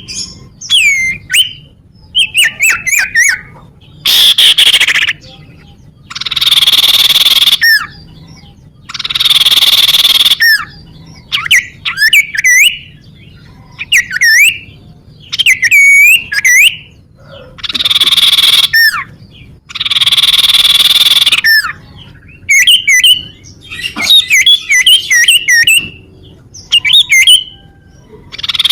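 Common iora (cipoh) calling: short, hooked whistled notes alternating with long, harsh, buzzy rasps about every two to three seconds.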